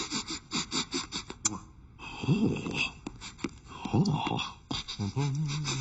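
A man's wordless vocal noises: short gasps and grunting sounds broken by quick clicks. About five seconds in, a steady low hum begins.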